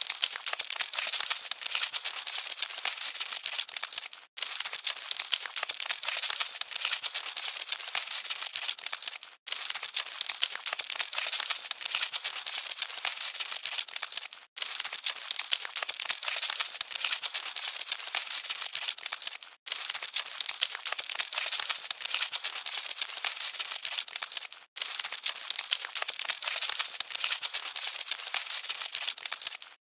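Dense, crackly rustling of scuttling cockroaches, a loop that drops out for a split second about every five seconds.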